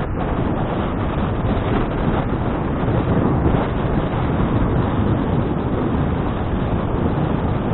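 Steady wind noise buffeting the action camera's microphone during a bicycle ride.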